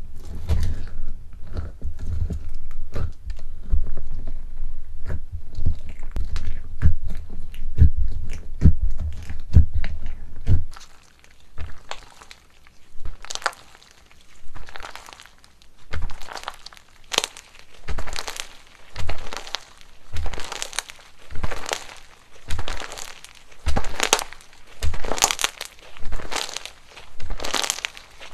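Crunchy slime being pressed and squeezed by hand. For the first ten seconds or so there is dense crackling with soft low thumps, then a steady run of single crunchy squishes about once a second.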